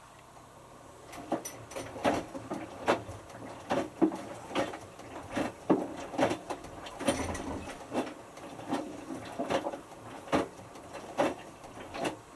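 Hotpoint Futura HF8B593 washing machine drum tumbling a small wet load, with a soft thud or slosh about every 0.8 s as the clothes drop. It starts about a second in and stops near the end: a burst of tumbling in the load-sensing stage early in the wash.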